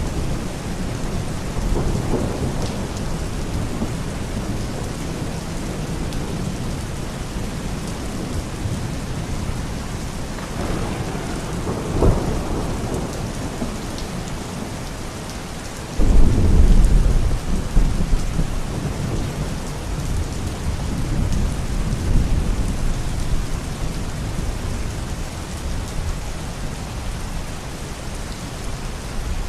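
Steady heavy rain with rolling thunder: a sharp crack about 12 seconds in, then a sudden loud low rumble about 16 seconds in that rolls on and fades over several seconds.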